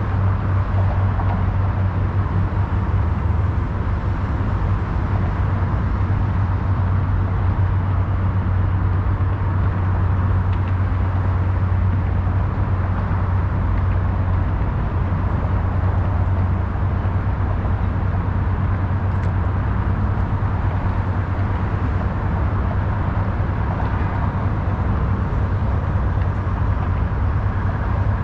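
Steady city traffic noise: a constant low rumble and hiss of passing road traffic, with no single vehicle standing out.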